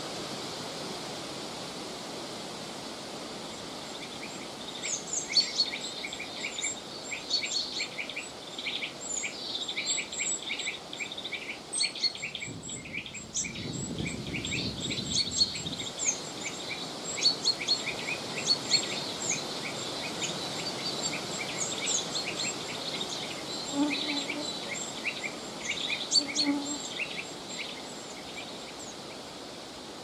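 Birds chirping, many short high notes in quick irregular succession, from about four seconds in until near the end, over a steady hiss of autumn wind. A lower rush of wind swells briefly about halfway.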